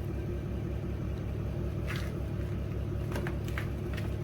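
Steady low mechanical hum with an even pulsing throb, guessed to be a generator running, with a few faint ticks over it.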